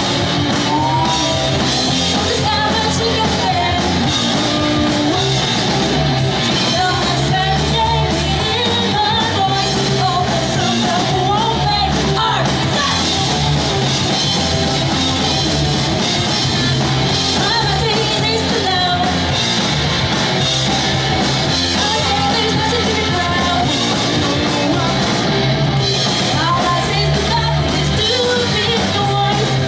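Pop-punk band playing live: distorted electric guitars, bass and drum kit with a lead vocal sung over them, loud and continuous.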